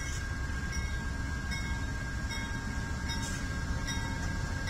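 A train rolling past with a steady rumble, plus a faint short high note repeating a little more than once a second.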